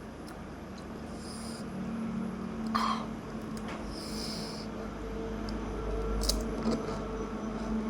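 Panipuri being eaten: a few short mouth sounds, crunching and slurping, with a sharp click a little after the sixth second, over a steady low hum.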